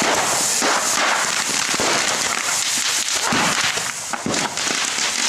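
Firecrackers crackling and popping in a dense, unbroken rapid string inside a burning pile of dry Christmas trees.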